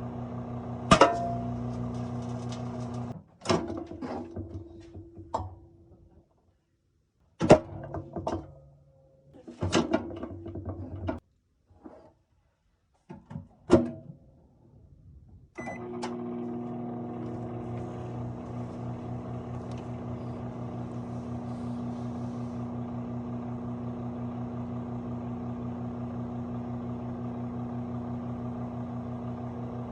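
Microwave oven running with a steady hum. In the first half the hum is broken by several sharp clicks or knocks and brief silences, then it runs on unbroken from about halfway through.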